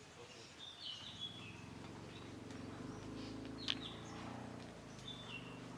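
Faint outdoor ambience with a few short bird chirps, one about a second in and another near the end. There is a single sharp click partway through and a faint low steady drone in the second half.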